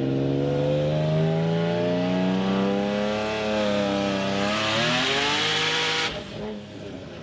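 Single-turbo Nissan 350Z's VQ35DE V6 under hard acceleration, its pitch climbing, easing briefly midway, then climbing again as a hiss builds. About six seconds in the throttle is lifted and the sound drops off suddenly.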